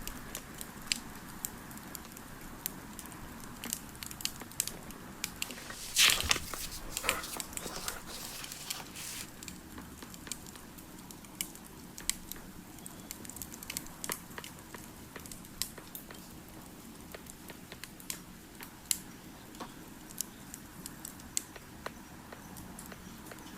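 Campfire crackling: irregular sharp pops and snaps over a low hiss, with a louder burst of crackling about six seconds in.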